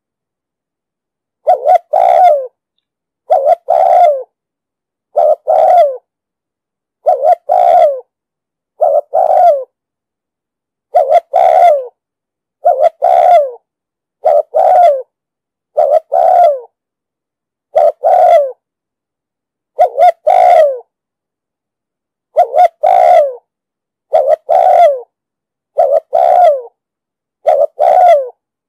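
Spotted dove cooing: a short two-to-three-note coo repeated steadily about every two seconds, the 'thúc gù' call used to lure wild doves to a trap.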